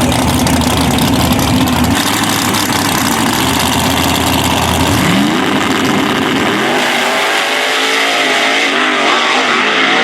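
Drag race car engines running loud, with a rising rev about five seconds in; after it the deep engine sound falls away, leaving higher, wavering engine tones.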